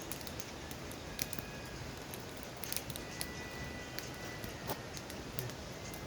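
Wood campfire burning, with a few sharp pops and snaps over a steady low rustle, and a faint thin high whistle for a second or so near the middle.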